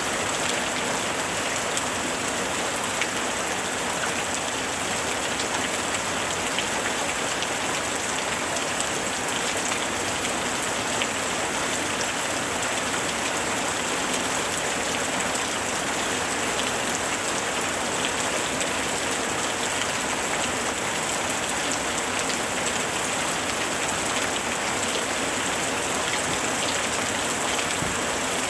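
Steady rain falling, an even hiss sprinkled with countless small drop ticks, holding at the same level throughout.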